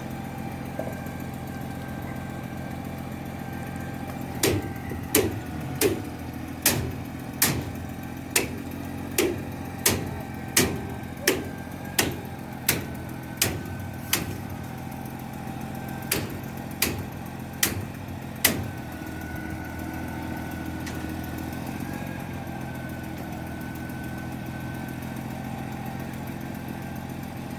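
An engine runs steadily throughout. From about four seconds in to about eighteen seconds, it is overlaid by a run of about twenty sharp knocks, roughly one and a half per second, with a brief pause partway through.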